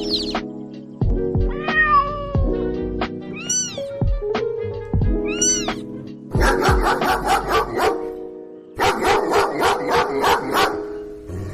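A domestic cat meowing three times, each call rising and falling in pitch, over background music. In the second half a fast rhythmic pulsing comes in, about six pulses a second.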